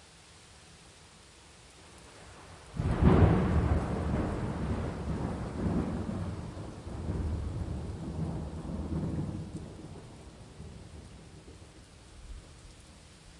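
Steady rain, then a sudden loud thunderclap about three seconds in. It rolls into a long low rumble that swells again a few times and fades away over the next nine seconds or so.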